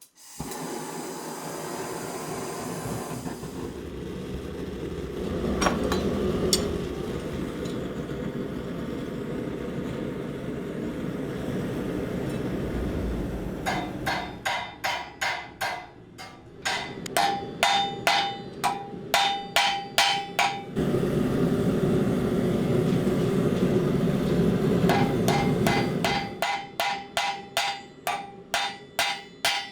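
Blacksmith's hammer striking hot steel on an anvil in two runs of blows, each blow ringing. The first run, about halfway through, goes at about two blows a second; the second, near the end, is faster, about three a second. Between the runs is a steady low rushing from the forge.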